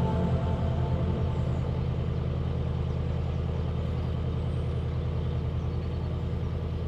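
Narrowboat engine running steadily at cruising speed, a low, even chugging.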